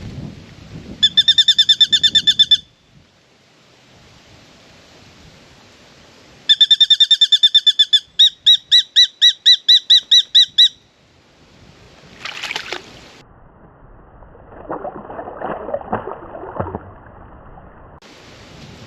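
A bird calling in two rapid series of clear, evenly repeated notes, about eight a second; the second series slows to about four notes a second partway through. Near the end come a short rough noise and a longer rustling noise.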